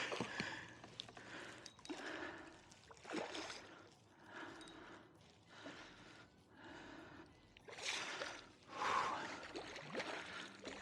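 A person breathing hard, in a run of loud, noisy breaths about every one to two seconds.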